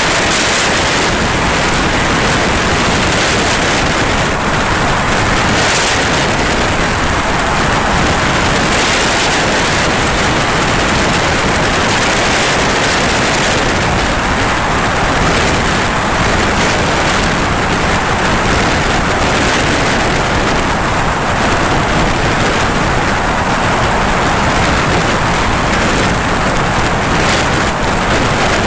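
Steady, loud rush of engine and airflow noise inside a light aircraft's cabin, even and unbroken.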